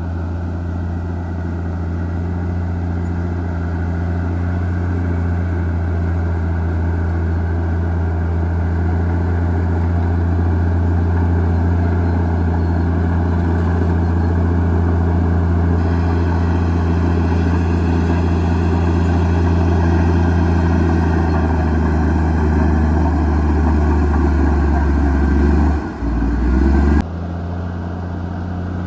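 Komatsu D58E bulldozer's diesel engine running steadily under load with a deep, constant drone, changing abruptly near the end.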